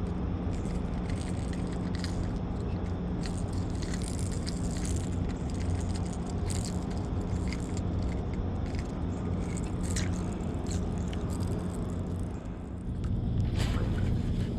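Boat motor running steadily, with light clicks and rattles over it; about 13 s in it gets louder and its pitch shifts, as if the throttle were opened.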